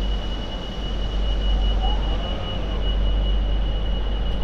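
MTR Light Rail Phase IV train running: a steady low rumble with a thin, steady high whine held over it. A sharp knock comes right at the end.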